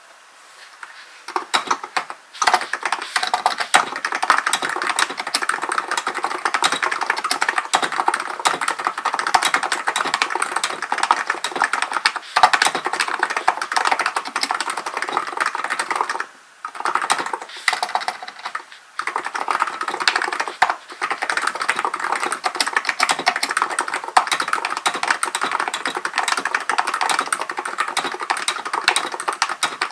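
Typing on a Hansung GK898B electro-capacitive (Topre-style) keyboard: a fast, continuous stream of keystrokes that starts about a second in and pauses briefly twice midway.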